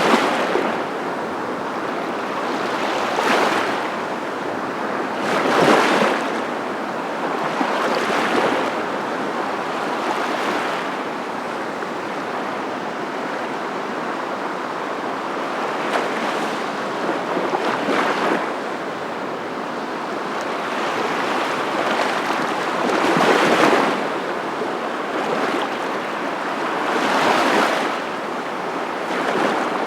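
Ocean surf: a steady rush of water with waves swelling and washing in every few seconds.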